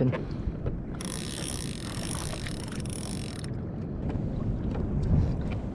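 Wind buffeting the microphone over water sounds around a kayak, with a band of high hiss from about one to three and a half seconds in.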